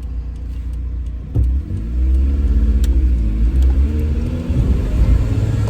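Manual car's engine pulling hard under full acceleration, starting to climb about a second and a half in. It rises in pitch and drops back twice as it shifts up through the gears.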